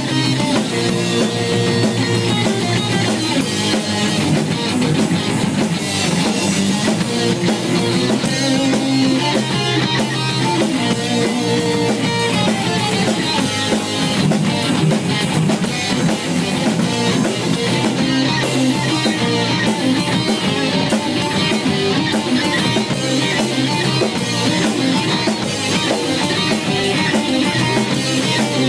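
Heavy metal band playing at a steady, loud level: electric guitars over bass and a drum kit.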